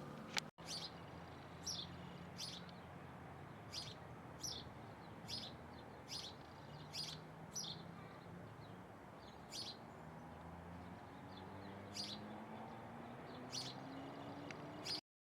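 A bird calling over and over with short, high chirps that drop in pitch, about one a second, over a faint low background rumble. The audio cuts off abruptly near the end.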